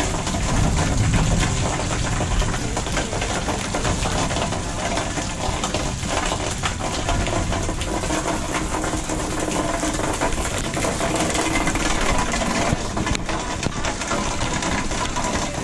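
Heavy rain falling during a thunderstorm: a dense, steady patter of drops.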